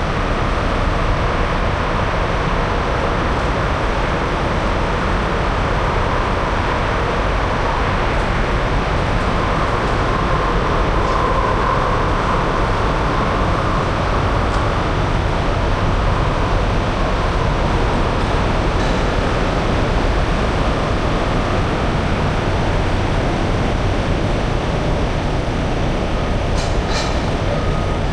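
Semi truck driving at steady highway speed: a constant engine drone with road and wind noise, and a few brief clicks near the end.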